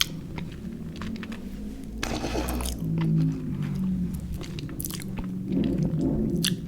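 Close-miked chewing of chewy fruit candy, with many short, sticky mouth clicks and a denser burst of chewing about two seconds in.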